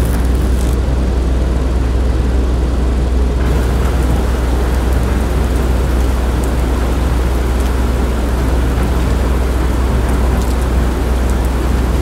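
Steady, loud low rumble of a train in motion, with an even running noise over it.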